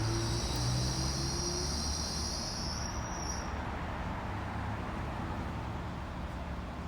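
Street traffic: a vehicle engine running low and steady, with a high-pitched whine that fades out about three seconds in.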